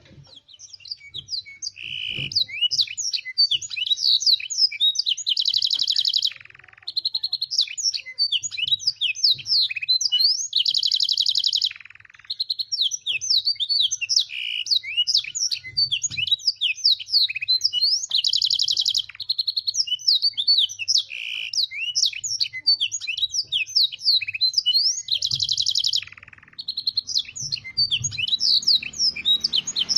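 Domestic canary singing a long, continuous song of rapid chirps and sweeping whistles, with learned blackthroat and sanger phrases. Every six or seven seconds it breaks into a loud, even, rolling trill, with a few brief pauses between phrases.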